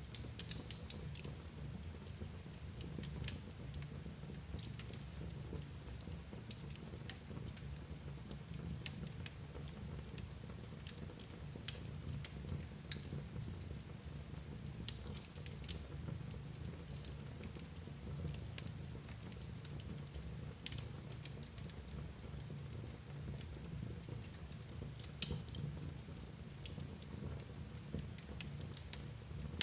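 Wood fire burning in a fireplace: irregular sharp crackles and pops over a low steady rumble, with one louder pop late on.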